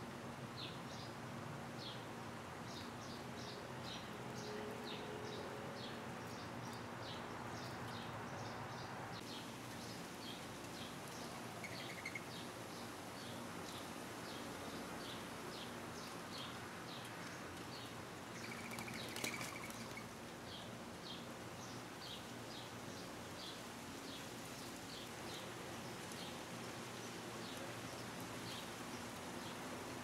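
Small bird chirping over and over, about two to three short high chirps a second, with two brief buzzy notes in the middle, over a faint steady outdoor hiss.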